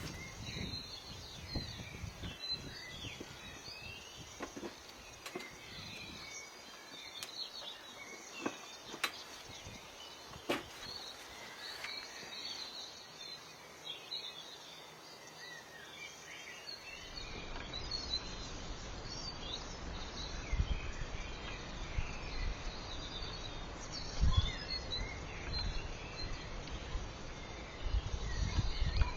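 Small birds chirping and singing in short, high calls throughout, with a few sharp clicks partway through. After about halfway a low rumbling noise rises underneath the birdsong.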